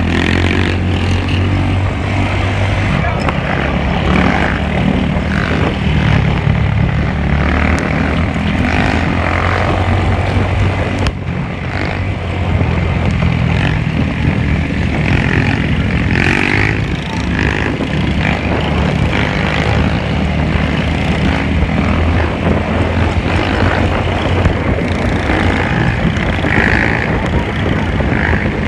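Motorcycle engines running with a steady low drone, with voices over them.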